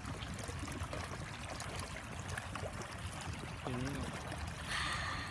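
A small stream running and trickling, with a steady rush of water that is flowing fast.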